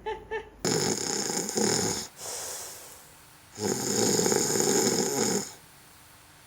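A person snoring: two long, rasping snores about three seconds apart.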